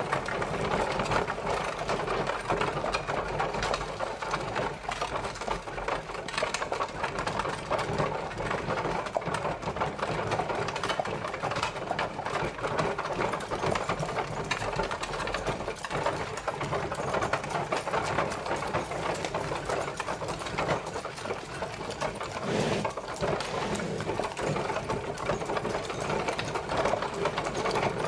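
Horse-drawn carriage travelling, its wheels and body rattling in a steady, dense clatter.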